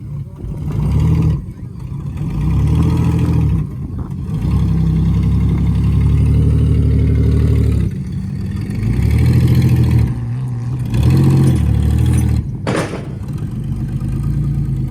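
Oldsmobile Cutlass Ciera demolition derby car's engine running and being revved in repeated surges, each rising and dropping back. A single sharp crack comes near the end.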